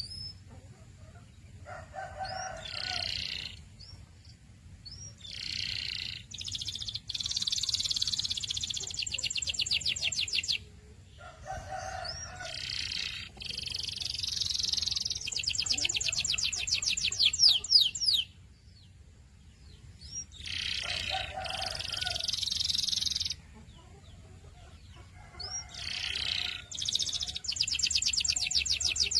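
Canary singing: phrases of fast, evenly repeated high notes, some drawn out into long rolling trills of several seconds, broken by short pauses.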